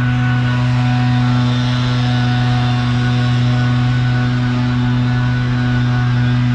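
A steady machine hum: a loud, unchanging low drone with several fixed pitches stacked above it.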